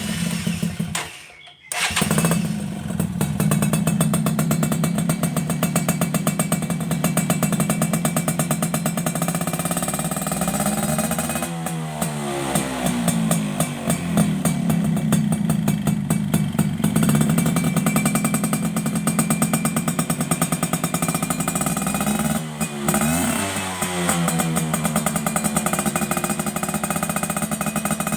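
Yamaha Alfa two-stroke engine through an aftermarket full-stainless racing exhaust, firing up after a short first burst and then idling with a crisp, rapid exhaust note. It is revved up and back down twice, about twelve and twenty-three seconds in.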